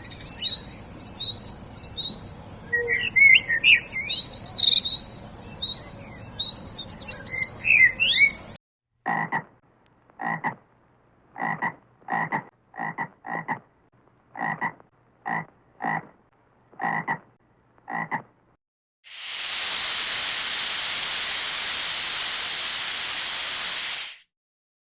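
Birds chirping and singing over a steady outdoor background. Then comes a series of about twelve short croaking calls, each separate. Last comes a long, loud, even hiss that cuts off suddenly.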